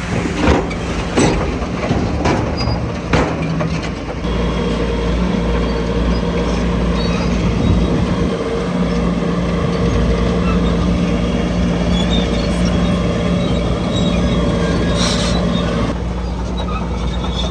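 Diesel engine of heavy earthmoving machinery running steadily under load. Several sharp clanks come in the first few seconds.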